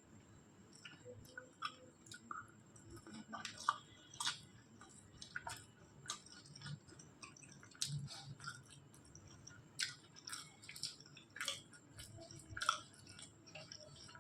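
A person chewing food, with irregular wet mouth smacks and clicks.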